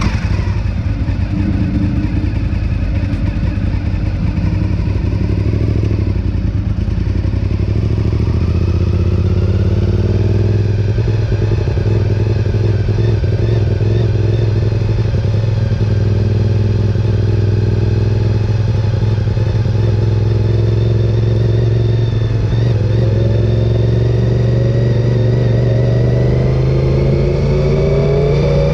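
Sport bike engine heard from the onboard camera, running at low revs while the bike rolls slowly through the paddock. Its pitch rises steadily over the last several seconds as the bike accelerates onto the track.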